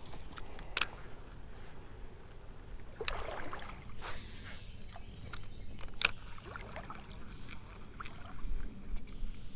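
Fishing from a small paddle boat on a river: three sharp knocks on the hull or gear a couple of seconds apart, with a short splash of water after the second.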